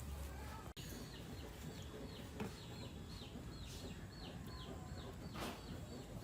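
A bird chirping over and over in short falling chirps, about two or three a second, over a low background rumble.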